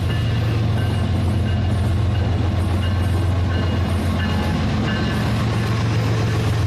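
Rail King battery-powered toy train running on its track: a steady motor drone, with short high tones coming and going over it.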